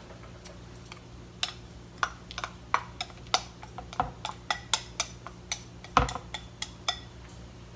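Irregular light clicks and taps of a utensil against a dish as cooked kimpira burdock is moved into a bowl, a few taps a second.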